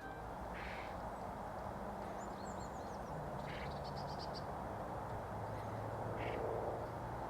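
Wild birds calling outdoors: a short harsh call repeated about every three seconds, with a few high thin notes and a quick trill from smaller birds, over a steady background hiss.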